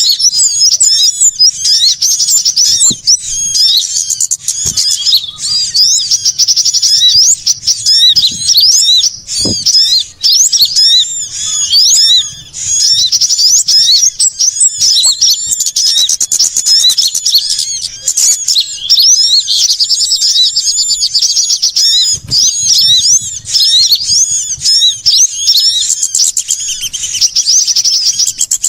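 Bird-lure recording of small songbirds, such as sunbirds, chattering in a busy chorus. Rapid, overlapping high-pitched chirps and trills run on without a break, the kind of agitated calling used to draw small birds in.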